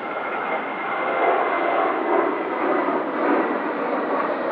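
Boeing 787-9 Dreamliner jet engines rushing during takeoff, growing louder about a second in, with a faint steady high whine.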